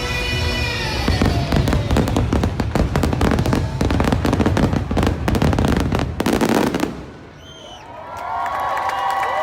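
Fireworks finale: a dense barrage of rapid crackling and bangs as the show's music fades out in the first second or so. The barrage stops about seven seconds in, and a crowd starts cheering and screaming near the end.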